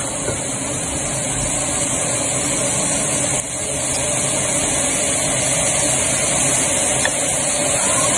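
Chicken strips frying in a nonstick pot, giving a steady sizzling noise.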